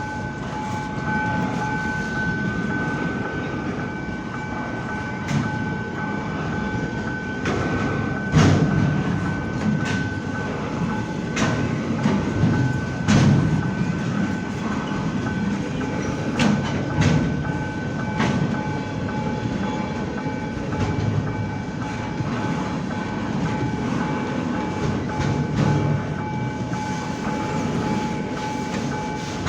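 Freight train rolling past close by: a continuous rumble of wagons with irregular sharp clacks of wheels over rail joints. A steady high tone sounds throughout.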